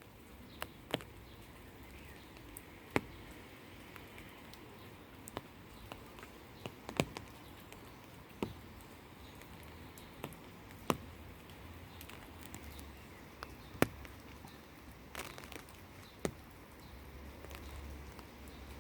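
Gentle rain: single drops tap irregularly, a dozen or so sharp drips at uneven gaps, over a faint steady background hiss.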